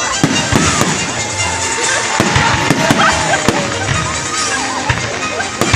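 Fireworks display going off, with a rapid run of bangs and crackling bursts, with music playing.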